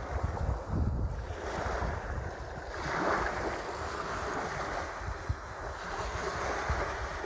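Sea waves washing in, with wind buffeting the microphone as a low rumble; a wave surges up about three seconds in.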